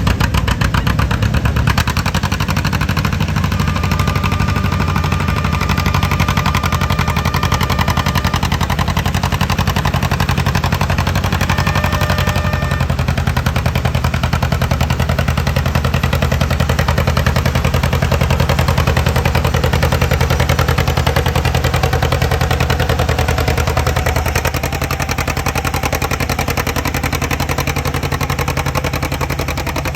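High-horsepower John Deere pulling tractor engine running flat out under load through a full pull, with a loud, rapid staccato exhaust. The engine note eases and drops a little near the end of the run.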